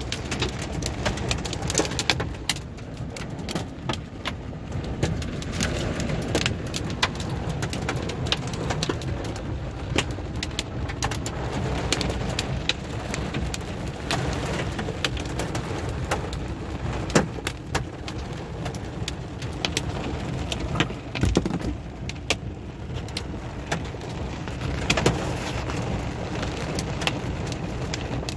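Large hailstones pelting down in heavy rain: a dense, irregular clatter of sharp impacts over a steady roar.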